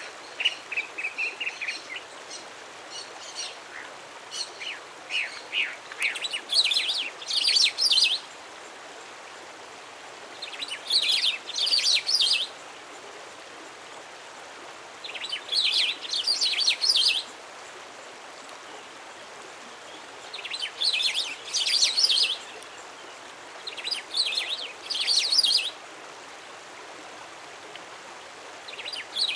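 A wild songbird singing: high, rapid phrases of quick notes about two seconds long, repeated every four to five seconds, with scattered single notes in the first few seconds. A faint steady background hiss, like running water, lies underneath.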